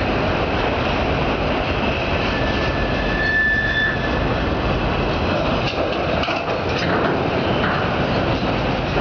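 Empty autorack freight cars rolling past on steel wheels: a loud, steady rumble and rattle, with a brief high wheel squeal about three seconds in and a few clanks a little later.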